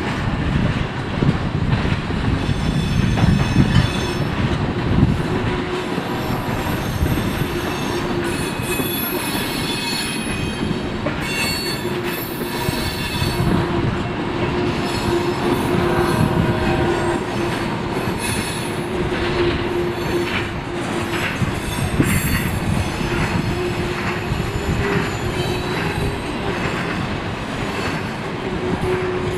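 Freight train cars rolling past: a continuous rumble of wheels on rail with high-pitched wheel squeal that comes and goes, and a steady droning tone underneath.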